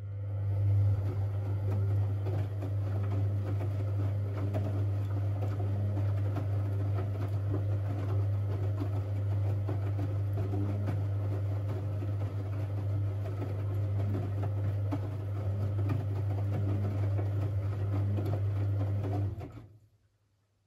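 Siemens Siwamat 6143 washing machine with water running through it under a steady electric hum, switching on at once and cutting off suddenly near the end after about nineteen seconds.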